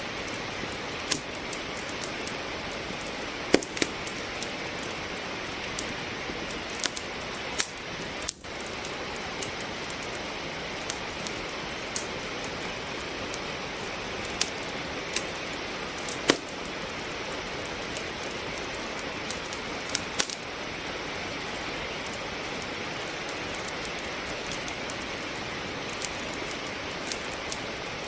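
Steady rain falling, with a wood fire in a fireplace crackling over it in sharp, irregular pops, two of them louder than the rest. The sound dips briefly about eight seconds in.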